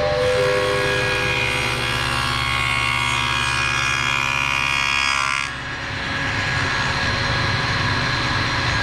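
Table saw with a dado head running and cutting through a wooden leg piece. The high cutting hiss stops about five and a half seconds in, and the saw then keeps running free.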